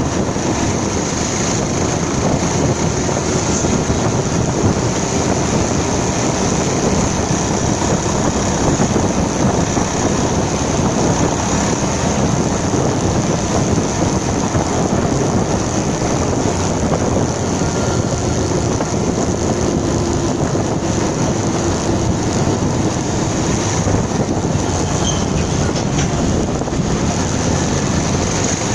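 Motorcycle riding at steady speed: a continuous rush of wind and road noise over the running engine, with a faint steady engine tone underneath.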